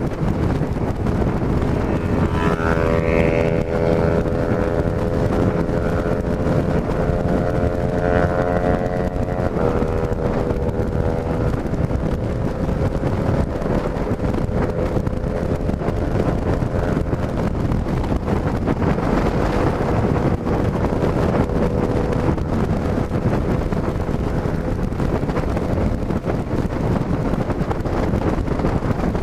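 Yamaha XJ6 F's inline-four engine, with a stock exhaust that has a drilled sport hole, running steadily under way, with heavy wind rush over the microphone. The engine note shifts about ten seconds in and fades into the wind in the last few seconds.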